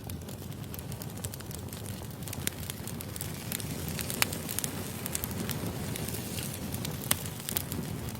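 Wood fire crackling, with irregular sharp pops over a steady low rumble of burning logs. The two loudest snaps come about four and seven seconds in.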